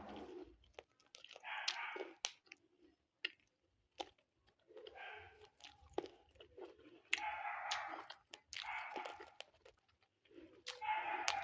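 Pet parrot making a series of short raspy, crunchy bursts, about five of them, with sharp clicks in between.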